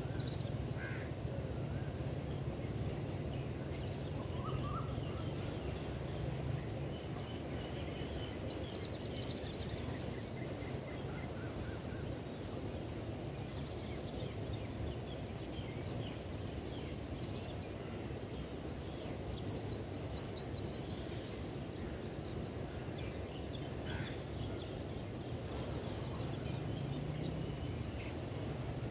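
Birds chirping, with bursts of rapid, evenly repeated high trill notes three times, over a steady low background rumble.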